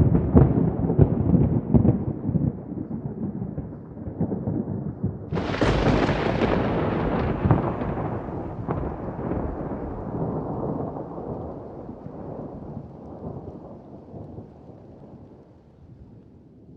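Thunder: a low rolling rumble, then a sharper crack about five seconds in that rolls on and slowly fades away.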